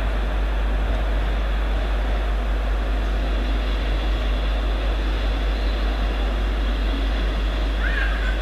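Approaching passenger train's running noise: a steady rumble and hiss that holds level throughout. A short high tone rises briefly near the end.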